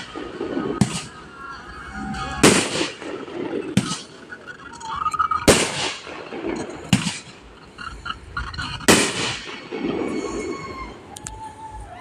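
Aerial fireworks shells bursting: six loud bangs, about one every one to two seconds, each trailing off in a rolling echo.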